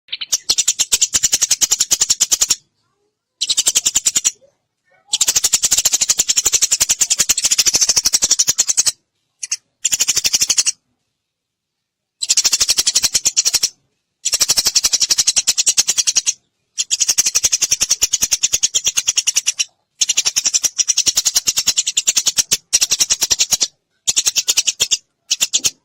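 Eurasian tree sparrow chirping rapidly, in dense runs of quick repeated chirps broken by short silent gaps.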